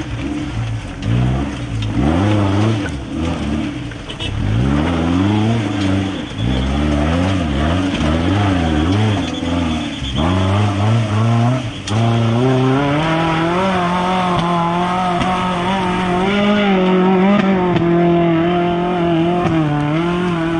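Maruti Gypsy's four-cylinder petrol engine revving hard, its pitch swinging up and down again and again, then held at a steady high rev from about halfway through as it labours up a steep muddy slope.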